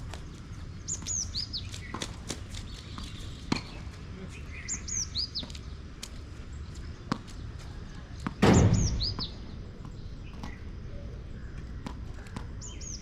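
A bird calling a short phrase of three or four high, falling whistled notes, repeated about every four seconds, over a steady background hiss. Sharp knocks sound now and then, and a loud, brief thump with a rush comes about eight and a half seconds in.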